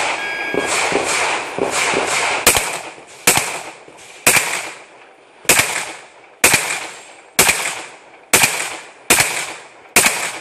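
Semi-automatic pistol shots in an IPSC course of fire: a fast string of shots in the first couple of seconds, then single shots about once a second, each with a short echo.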